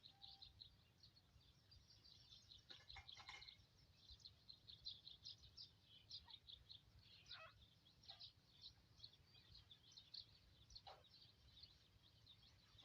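Faint bird chirping: many quick, high chirps with a few falling whistled calls.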